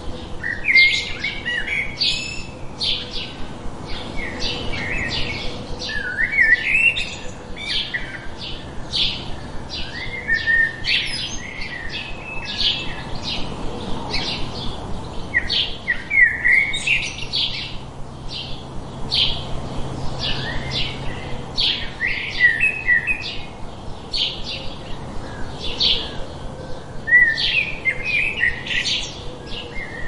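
Birds chirping: a steady run of short, high chirps about two a second, with lower warbled phrases breaking in every few seconds.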